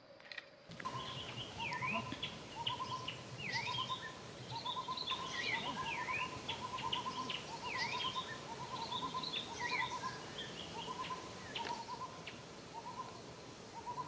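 Wild birds calling: a short hooting note repeated evenly about every three-quarters of a second, with higher chirps and quick whistled notes scattered over it. It starts just under a second in.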